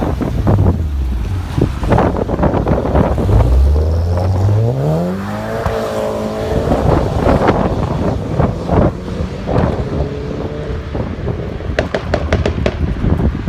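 A sports car accelerating hard: the engine note climbs steeply for a few seconds, levels off and fades as the car pulls away, with short sharp cracks heard throughout.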